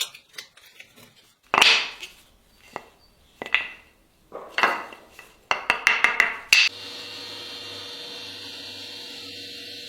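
Hard knocks and taps of tools on the work: a few single strikes, then a quick run of them. After that a steady machine hum starts abruptly, about seven seconds in, and runs on.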